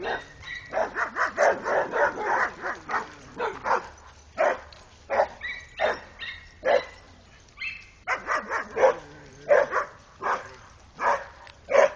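Dogs barking over and over, short sharp barks a few per second, with a brief higher whine about seven and a half seconds in.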